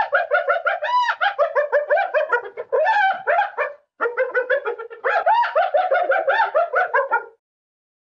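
Spotted hyena giggling: a fast string of short, high, yelping notes, about six to eight a second, in two bouts with a brief break about four seconds in.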